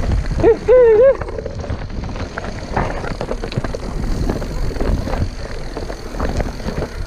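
Mountain bike rolling over a rough forest trail: wind buffeting the microphone with a low rumble, and irregular clatter and knocks from the bike over bumps. A brief voice call comes about half a second in.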